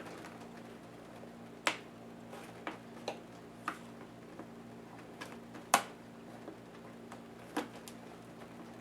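Irregular sharp clicks and taps of small plastic and metal laptop parts and tools being handled while taking the Lenovo IdeaPad S10-3T apart, the loudest one about two-thirds of the way through, over a steady low hum.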